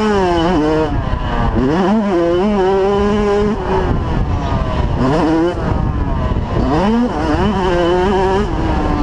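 85cc two-stroke motocross bike engine being ridden hard. The pitch rises sharply, holds, then drops off as the throttle is rolled off, about three times over.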